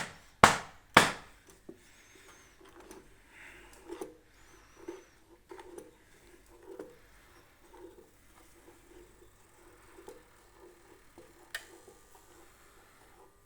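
Two sharp knocks on a wooden surface about half a second apart near the start, then soft, irregular thuds about once a second: pasta dough for tortellini being worked by hand on a wooden board. One sharp click near the end.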